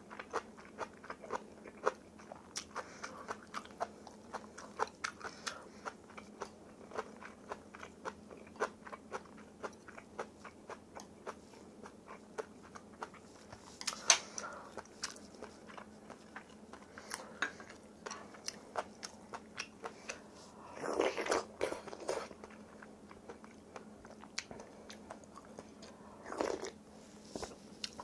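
Close-up chewing of crunchy napa cabbage kimchi: a steady run of crisp, wet crunches and bites, with one louder click about halfway and a couple of brief louder noisy sounds toward the end.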